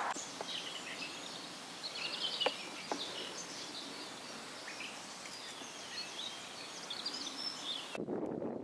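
Small birds chirping and singing over a steady outdoor hiss, with a couple of brief sharp calls about two and a half and three seconds in. Near the end the birds give way to a lower rushing noise.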